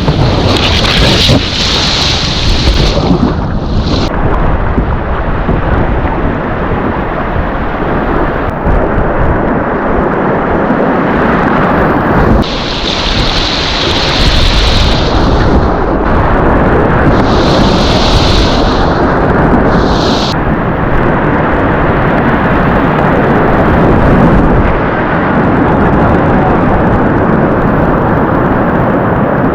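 Whitewater rushing steadily in river rapids, loud and unbroken. Brighter hissing surges of spray come in three times: near the start, around the middle and a little after.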